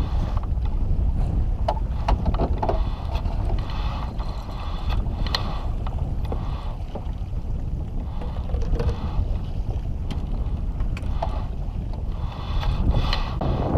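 Wind rushing across the microphone over splashing lake water, a steady low rumble broken by scattered light knocks and splashes.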